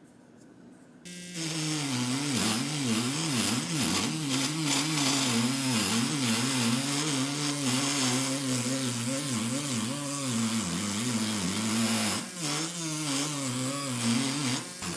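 A handheld power tool starts about a second in and runs steadily, its pitch wavering as the load on it changes, with a brief dip shortly before the end.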